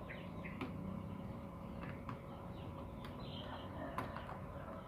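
Quiet workbench background: a few sharp light clicks and knocks, about half a second in and again about four seconds in, with birds chirping faintly.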